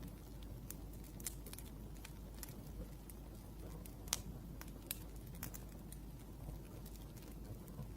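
Wood fire crackling: irregular sharp snaps and pops, a few each second, over a low steady rumble, one louder pop about four seconds in.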